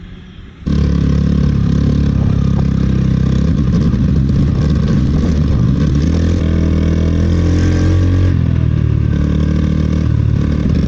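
Delivery scooter running at speed, its motor note steady with a shift in pitch partway through, over road and air noise; it starts abruptly about a second in.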